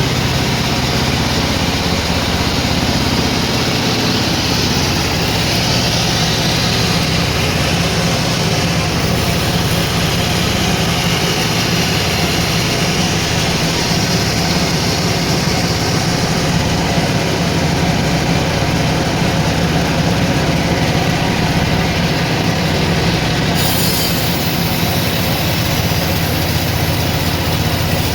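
Sawmill saw running steadily through a log, with a low machine hum under a faint high whine that rises and falls in the first ten seconds.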